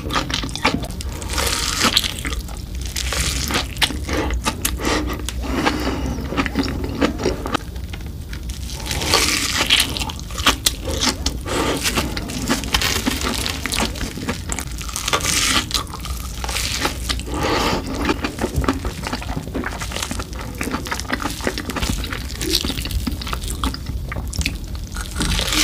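Chewing of Hot Cheetos-crusted fried food, with many small crunches and crackles and wet mouth sounds that come and go in uneven bursts.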